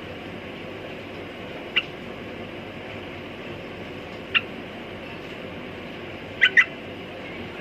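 Yellow-vented bulbul giving short, sharp chirps: single notes a couple of seconds apart, then a quick double chirp near the end, over a steady background hiss.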